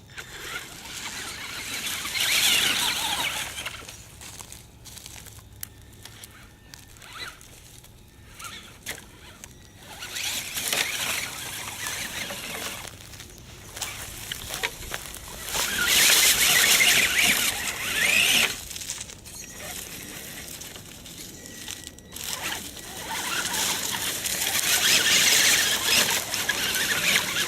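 Electric RC truck's motor and drivetrain whining in repeated bursts of throttle, four main surges with quieter stretches between. The motor is overheating.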